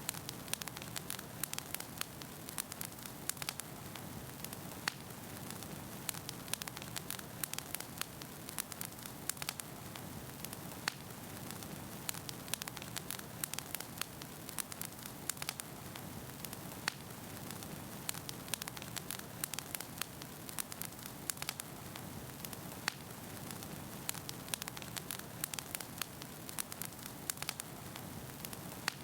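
Wood fire burning steadily with frequent, irregular crackles and pops of the burning logs over a constant hiss.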